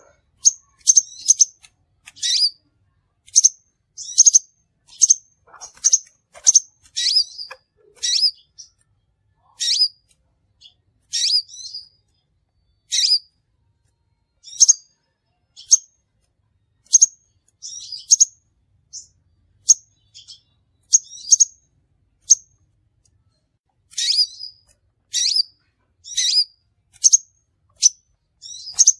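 Crimson sunbird giving sharp, high chirps, singly or in quick pairs about once a second, with a short pause about three quarters of the way through. This is the kind of call recording played as a lure to trap the species.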